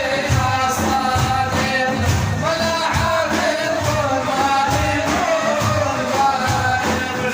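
Madih, an Arabic devotional praise song, sung over a steady low drum beat of about two beats a second.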